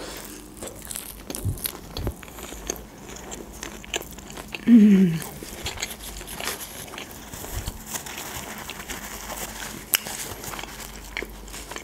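A person chewing a crunchy deep-fried (tempura) sushi roll close to the microphone: wet crunching and small mouth clicks throughout, with a short hummed 'mm' about five seconds in.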